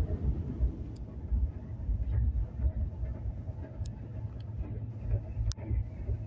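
Moving passenger train running along the line, a steady heavy rumble of wheels on the rails, with a few sharp clicks, the loudest near the end.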